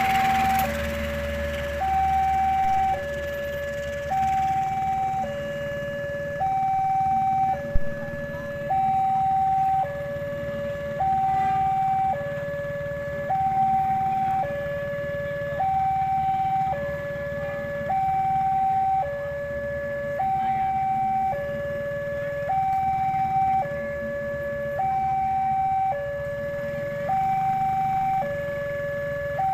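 Two-tone electronic warning alarm alternating steadily between a higher and a lower tone, each held about a second, over a low steady rumble. A single sharp click comes about eight seconds in.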